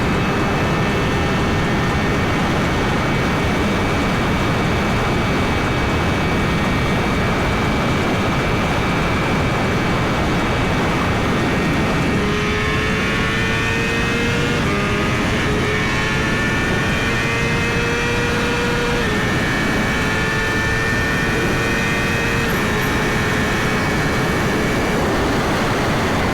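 Wind rushing over a rider's microphone at highway speed, with the Suzuki GSX-R1000's inline-four engine running underneath. About halfway through, the engine note becomes clearer and climbs slowly in pitch, dropping briefly three times.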